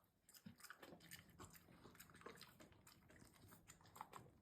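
A French bulldog chewing a sardine: a faint, quick run of small clicks and crunches.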